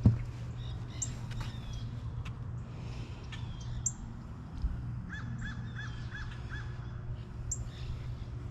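Wild birds calling and chirping, with a run of five short, evenly spaced calls about five seconds in, over a steady low hum. A single sharp knock right at the start is the loudest sound.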